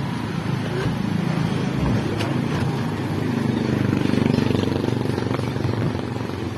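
Motorcycle engine running steadily close by, with street traffic around it.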